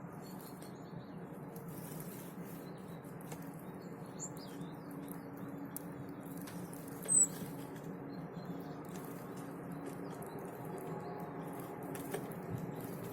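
Small forest birds at a winter feeding spot giving a few short, high chirps, with one louder chirp about seven seconds in, over a steady low hum.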